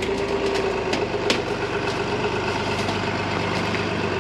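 Heavy truck engine idling steadily, with a steady whine over it and a few light clicks.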